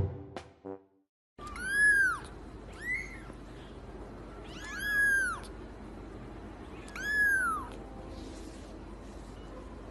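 Kitten meowing four times, high-pitched calls that rise and fall, two of them longer than the others.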